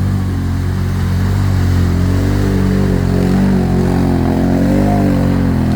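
ATV engine running at low revs, its pitch wavering a little with small changes of throttle.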